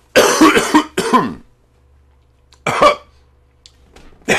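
A man coughing hard after a big hit of bong smoke: a double cough right at the start, another about two and a half seconds in, and one more near the end.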